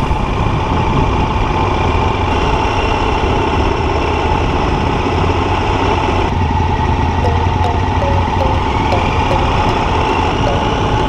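Motorcycle engine running steadily with a constant low hum.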